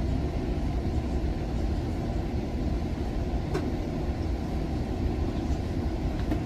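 Altamont Corridor Express commuter train running at speed, heard from inside a passenger car as a steady low rumble, with a faint click about halfway through.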